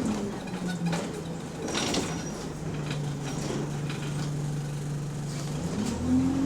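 Bus engine with an exhaust leak: the revs drop to a steady idle, then rise again near the end as it pulls away.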